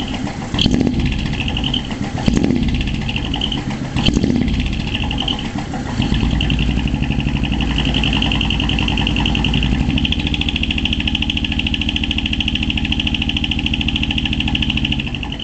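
Exhaust of a 100-series Toyota HiAce's small diesel engine fitted with a split manifold and a one-off muffler, giving a low, pounding note. There are three brief surges in the first few seconds, then the engine runs steadily from about six seconds in, a little higher from about ten seconds.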